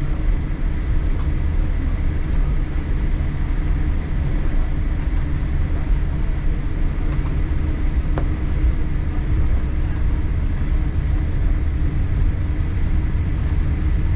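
Steady low cabin rumble and air noise inside a Boeing 787-8 on the ground after landing, with a faint click about eight seconds in.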